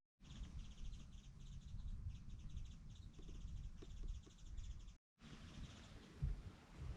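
A songbird singing rapid, repeated trilled phrases of high chirps, over a low rumble of wind on the microphone; the sound drops out briefly at the start and again about five seconds in.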